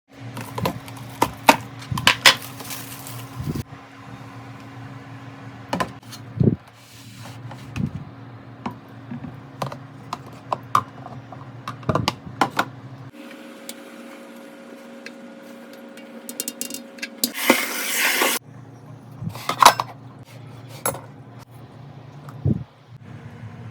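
Kitchen containers and utensils being handled: scattered knocks, taps and clinks over a steady low electrical hum, with a short rushing noise about 18 seconds in.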